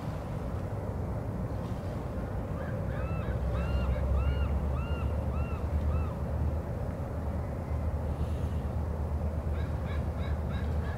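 A bird giving about eight harsh, arched calls in a row, roughly two a second, over a steady low rumble; near the end a quicker run of shorter calls follows.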